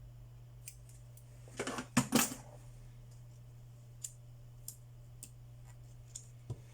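Small parts and tools being handled in a phone repair: scattered light clicks and taps, with a short burst of crackling handling noise about two seconds in, while double-sided tape is being applied. A steady low hum runs underneath.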